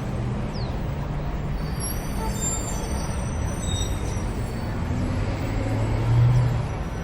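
Road traffic ambience: a steady low rumble of vehicle engines, with thin high squeals between about two and four seconds in and one engine growing louder about six seconds in.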